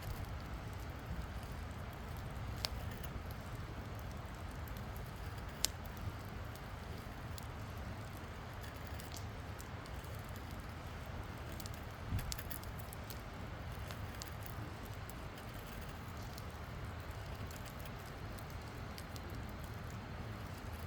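Wood campfire burning with a steady low hiss and scattered small crackles, with a few sharper pops about three, six and twelve seconds in.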